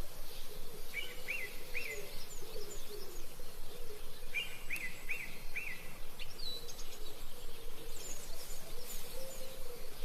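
Birds calling over a steady background hiss, with a short three-note chirping phrase heard twice and scattered higher chirps in between.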